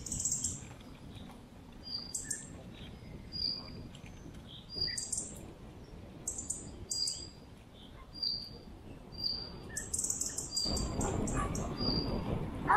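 A small bird calling with short high chirps, repeated roughly once a second, over the low rumble of tyres on a dirt track. The rumble gets louder about ten seconds in.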